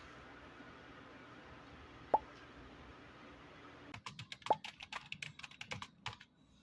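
A single short plop about two seconds in, then a quick run of rapid, irregular clicks for about two seconds.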